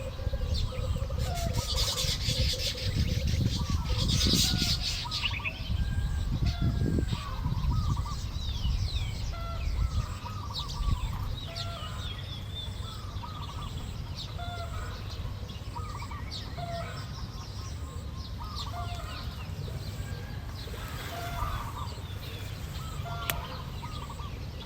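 Birds calling in many short, repeated notes throughout, with a low rumble underneath that is strongest in the first half.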